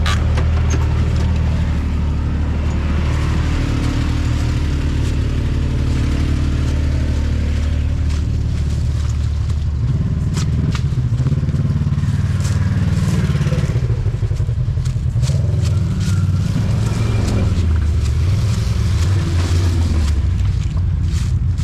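Off-road vehicle engine running steadily at low speed, with scattered knocks and rattles as it bumps slowly across a plank bridge deck.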